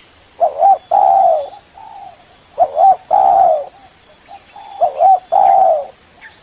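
Spotted dove cooing: three calls about two seconds apart, each a quick two-note start followed by a long, slightly falling coo.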